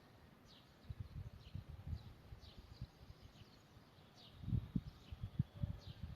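Small songbirds giving faint, short, descending chirps about once a second, over low rumbling and thudding noise that swells about four and a half seconds in.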